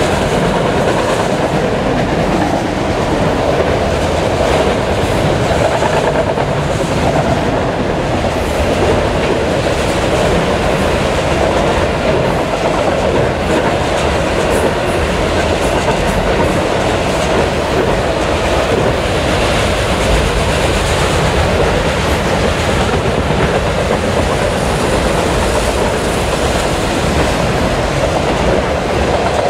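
Freight train of enclosed autorack cars rolling past: steady rumble and clatter of steel wheels on the rails.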